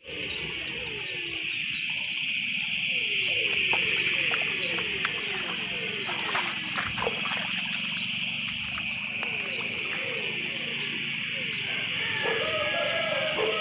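Outdoor animal chorus: a continuous high drone with runs of short, falling low calls repeated about three times a second, and faint high chirps above.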